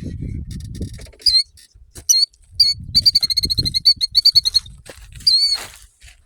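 Shrill, high alarm calls of a nesting bird doing a broken-wing distraction display: single down-slurred notes, then a fast run of repeated notes in the middle and one longer call near the end. A low rumbling noise lies under the calls in the first second and again in the middle.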